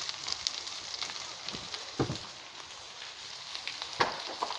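Large outdoor fire of burning trees and brush crackling steadily, with many small snaps and two louder pops about two seconds in and again near the end.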